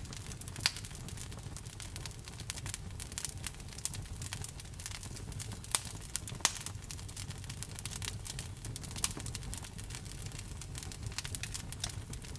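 Wood fire burning, with a steady low rumble and constant irregular crackling, punctuated by a few sharper pops of the burning wood.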